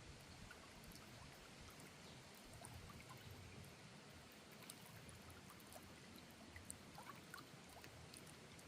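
Faint, steady rush of flowing water, with a few small scattered clicks.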